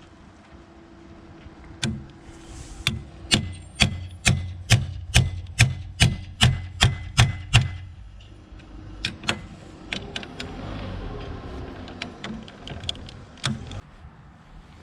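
Hammer striking in a steady run of about a dozen blows, a little over two a second, followed by a few scattered knocks.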